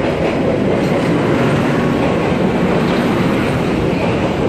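Passenger train rolling along the platform close by: a steady, loud noise of wheels running on the rails.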